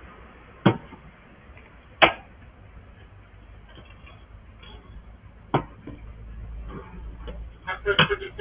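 Sharp clanks and knocks from a gate being climbed, picked up by a security camera's microphone: three loud strikes, the second the loudest, with fainter ticks between and a quick cluster near the end.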